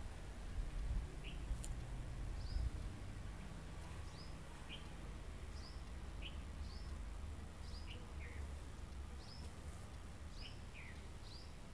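A bird calling over and over in short, high, falling chirps at two alternating pitches, sparse at first and coming more often towards the end. A low rumble of wind or handling noise runs underneath and is strongest in the first few seconds.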